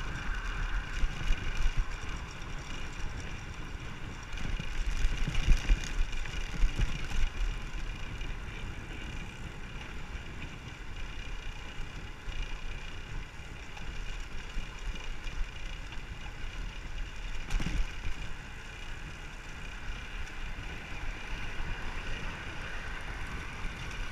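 Wind buffeting a microphone on a moving road bike, with steady road and tyre noise underneath; the buffeting gusts strongest about a quarter of the way in, and there is one short knock about two-thirds of the way through.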